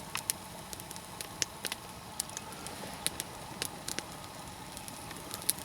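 Log campfire of spruce and fir burning with a faint steady hiss and about a dozen sharp, irregular crackles and pops. The pops come from resin pockets in the spruce and fir wood bursting in the heat.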